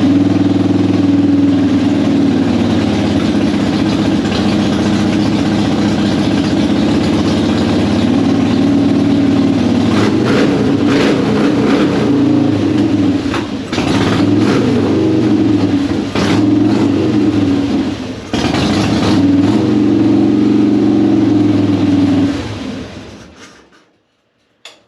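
Harley-Davidson Softail Deluxe V-twin engine running on choke just after starting, revved up briefly several times, then switched off about 23 seconds in. It now starts and runs properly, its hard, slow cranking cured by cleaning the corroded battery cable contacts rather than replacing the starter.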